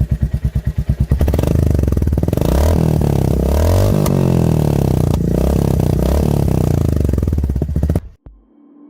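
Royal Enfield 350 single-cylinder engine through an aftermarket exhaust, idling with an even thump for about a second, then revved up and down repeatedly. The sound cuts off abruptly near the end.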